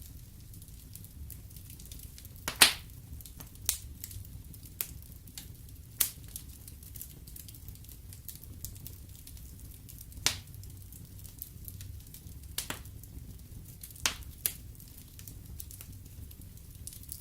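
Fireplace fire burning with a steady low rumble, crackling with faint ticks and about eight sharp pops, the loudest about two and a half seconds in.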